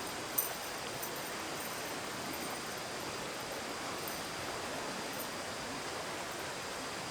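Steady rush of flowing water, an even noise that does not change, with one brief click about half a second in.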